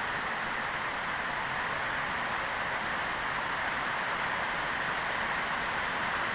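Rain pouring steadily in a windstorm: an even, unbroken hiss.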